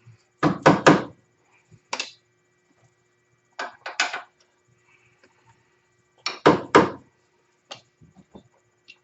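Hammer blows in short clusters of two or three, knocking a front-suspension part on an ATV into line.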